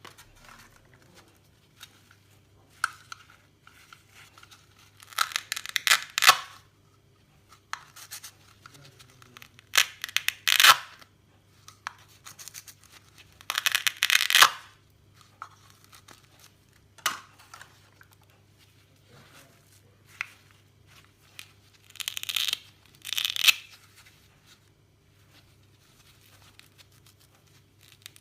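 Crackly tearing sounds in about five short bursts a few seconds apart, with scattered single clicks between them.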